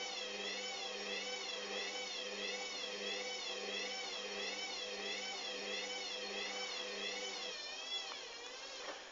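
Hoover Dynamic washing machine on spin, its motor whine wavering up and down in pitch about one and a half times a second as the unbalanced load swings the drum. The sound weakens and drops off near the end.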